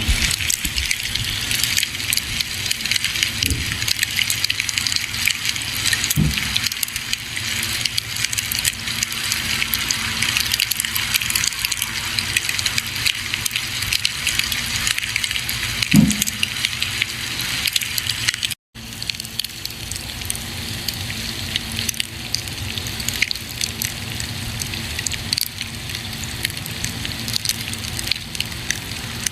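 Campfire burning: wood crackling and popping over a steady hiss, with a louder pop a little past halfway and a momentary dropout soon after.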